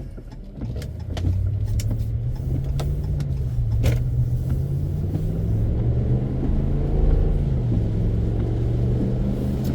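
Car engine and road noise heard inside the cabin as the car picks up speed about a second in, then runs steadily, easing off slightly near the end. One sharp click about four seconds in.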